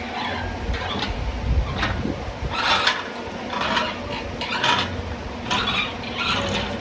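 Irregular metal clanks and rattles, about one every second, over a low rumble, as an engine and transmission hanging from an engine hoist are swung and moved.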